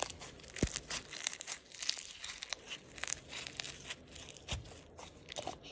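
Clear slime being squeezed and pressed flat by hand, giving a dense run of small crackles and pops.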